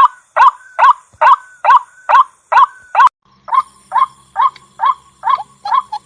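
White-breasted waterhen's female call, a rapid run of short, upward-sliding notes at about two a second, played as a trapping lure. About three seconds in, a faint low hum joins the background.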